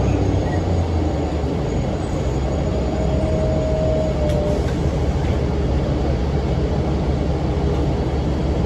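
Cummins ISM diesel engine of a NABI 40-foot low-floor transit bus running steadily under way, with its engine cooling fan running. A short steady whine sounds for about two seconds a few seconds in.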